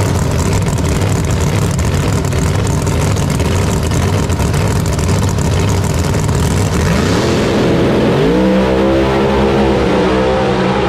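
Loud drag race car engine noise at full throttle. About seven seconds in, an engine's pitch rises sharply and then holds steady.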